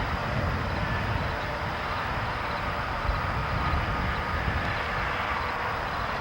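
Train moving along the track: a steady rumble of the locomotive and cars with rail noise, and faint thin squeals above it.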